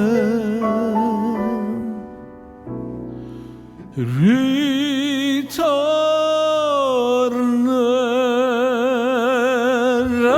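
Music: a ballad with a voice holding long notes with wide vibrato. It grows quieter about two seconds in, then swoops up into another long held note about four seconds in.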